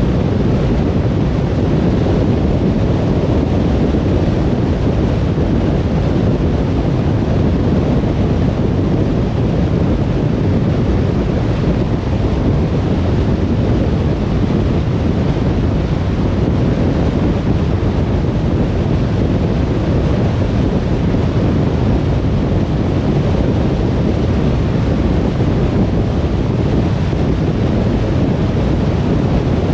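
Steady road noise of a car driving at speed, a constant rumble of tyres and wind with no distinct events.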